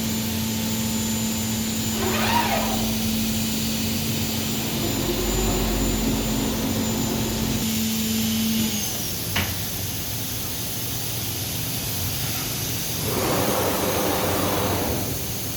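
Woodworking CNC router running with a steady hum and a rushing noise like a vacuum. About halfway through, its steady tone and high whine stop with a brief downward glide and a sharp click, and a louder surge of rushing noise comes near the end.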